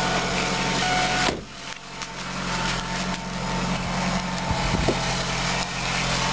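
2001 Ford Focus SE station wagon's engine idling steadily, with a brief dip in level about a second and a half in.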